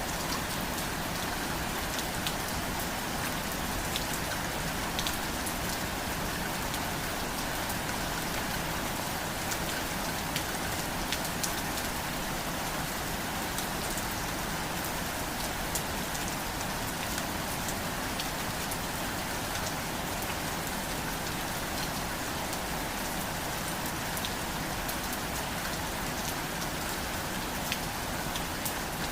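Steady rain falling, an even hiss with individual drops ticking sharply on a hard surface throughout.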